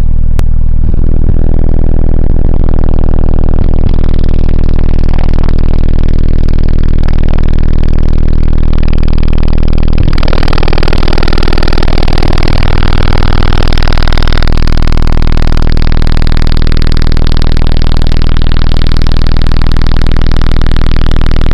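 Truck's car-audio subwoofers playing a steady deep bass tone at full volume for an SPL (TermLab) reading, loud enough to overload the microphone into heavy distortion. The sound changes about ten seconds in and again around fourteen seconds.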